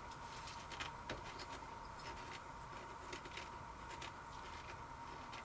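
Faint, irregular crackling and clicking of crunchy ridged potato crisps being chewed.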